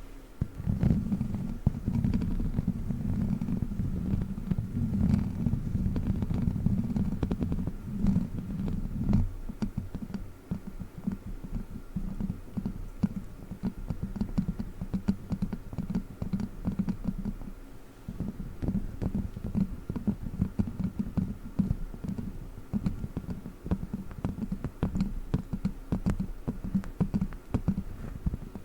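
Plastic witch-finger props scratching and tapping close up, a dense low rumble with small clicks; from about nine seconds in it turns to a fast, uneven run of taps.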